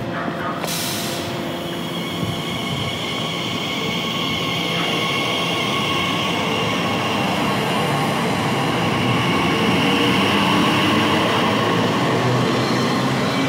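A train running past on the line, growing louder over about ten seconds, with a steady high whine over the rail noise. A short hiss about a second in.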